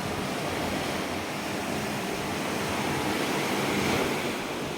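Ocean surf washing ashore, a steady rushing that swells about three to four seconds in and then eases.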